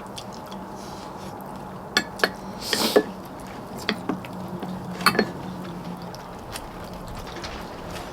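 Eating utensils clinking and scraping against bowls and pots during a meal: a handful of sharp clinks spread over a few seconds, with one short scrape, over a faint steady low hum.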